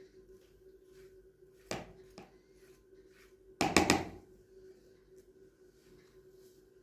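A few sharp knocks, the loudest a quick cluster of several strokes about halfway through, over a faint steady hum.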